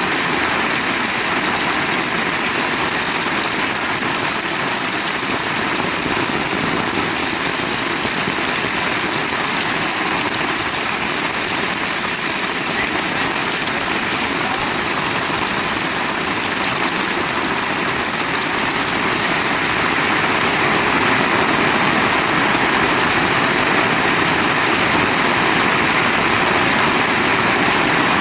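Heavy rain falling in a steady, loud downpour, an even unbroken hiss.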